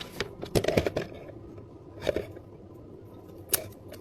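A handful of light clicks and knocks from drink cups and packaging being handled while an order is bagged, the sharpest about three and a half seconds in.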